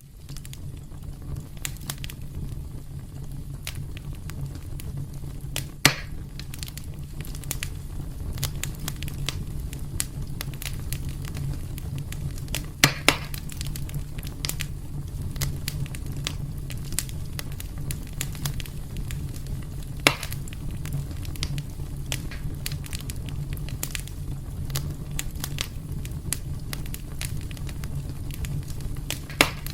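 Wood fire burning in a fireplace: a steady low rumble under constant small crackles, with a few louder sharp pops, two of them close together near the middle.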